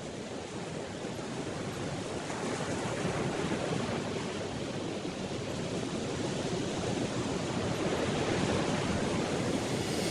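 Steady wash of sea surf, an even rushing noise that slowly grows louder.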